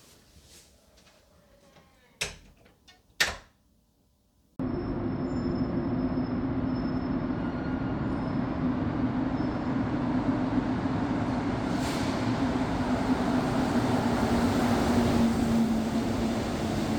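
A few sharp knocks and clicks in the quiet. Then, about four and a half seconds in, an abrupt cut to the steady rumble of a moving vehicle heard from inside, with a low hum that drops slightly in pitch near the end.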